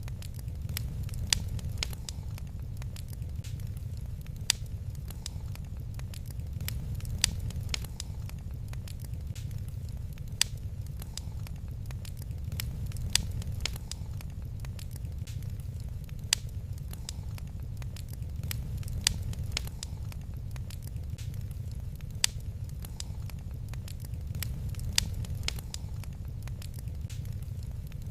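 Wood fire crackling in a fireplace: a steady low rumble of burning with frequent small crackles and a sharp louder pop every few seconds.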